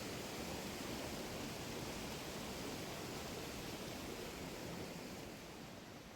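Steady rush of falling and flowing water from a waterfall or stream, dropping off in level near the end.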